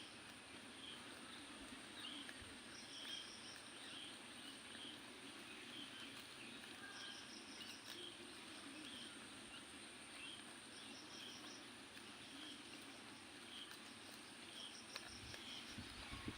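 Faint outdoor ambience: a steady high insect drone with short high chirps repeating about twice a second and occasional rapid pulsing trills from insects or birds.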